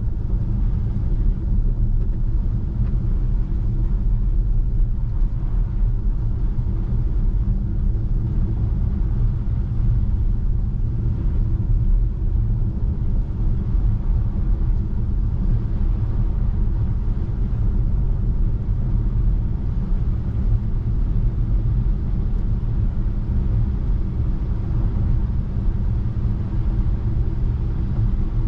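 Tesla Model 3 driving on a snow-covered road: a steady low rumble of tyre and road noise.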